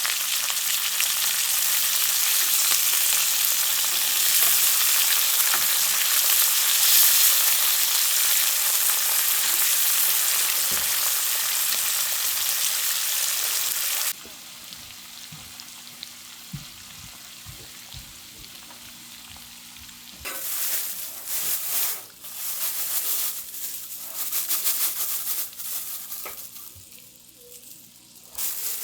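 Food sizzling in a hot frying pan, loud and steady for about the first half. It then cuts off abruptly to a quieter stretch with a few light knocks, followed by several short bursts of sizzling near the end.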